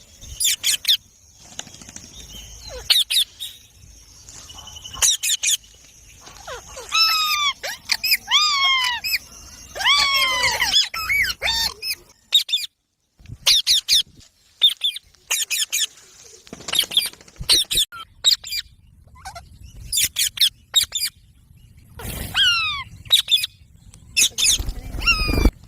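Pet rose-ringed (Indian ringneck) parakeets calling in short, sharp squawks and chirps. Runs of falling, downward-sliding screeches come about seven to eleven seconds in and again about twenty-two seconds in.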